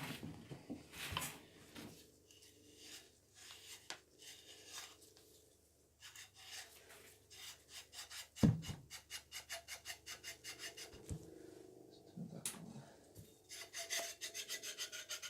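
Repeated short rubbing and scraping strokes of small metal drill-press parts being worked by hand after oiling, with one loud knock about eight seconds in. Near the end the strokes come quickly, about four a second.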